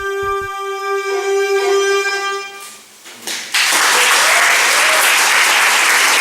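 Recorded music ends on a long held note over a drone and fades out, then an audience breaks into loud, steady applause about three and a half seconds in.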